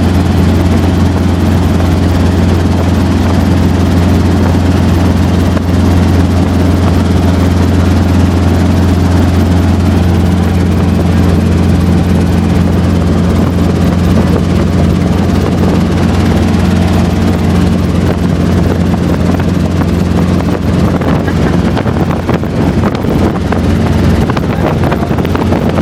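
Helicopter in flight: the rotor and engine make a loud, steady low drone that holds unchanged throughout.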